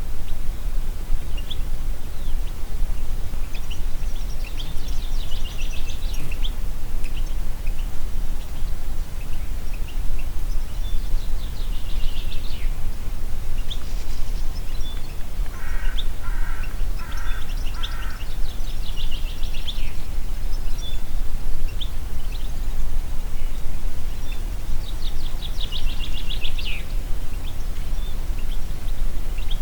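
Wind blowing through forest trees, with a steady low rumble of wind on the microphone. A songbird sings a quick trilled phrase about every seven seconds, and a lower call of a few repeated notes comes about halfway through.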